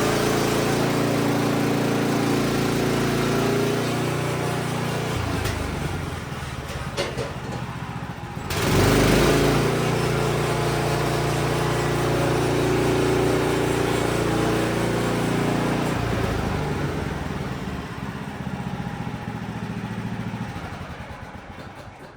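Band sawmill's engine running under load as it cuts pine, its pitch shifting a few times, with a louder, noisier stretch about eight to nine seconds in.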